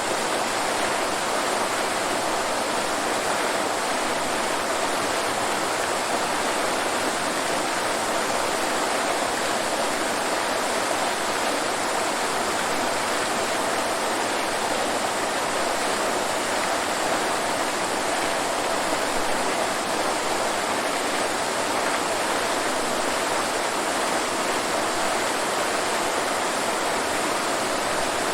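Waterfall rushing steadily: an even, unbroken wash of falling water with no separate splashes or changes.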